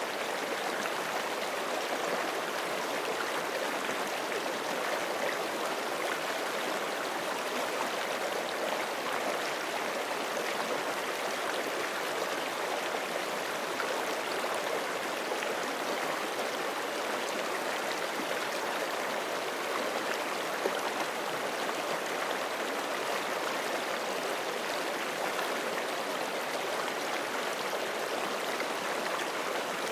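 Forest creek flowing over rocks: a steady rushing and babbling of running water, even throughout.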